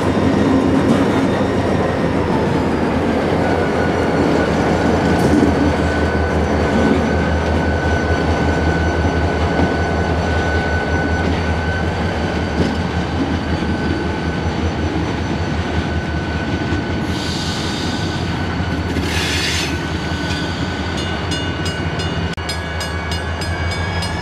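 Freight train switching: a diesel locomotive engine runs with a steady low drone while the cars roll with a thin, steady wheel squeal. Near the end come two short hissing bursts.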